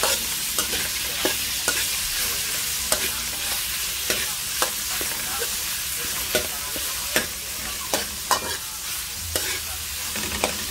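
Ground beef sizzling in a metal wok with garlic, onion and chili as it is stir-fried. A metal spatula scrapes and clacks against the pan at irregular intervals, about once or twice a second.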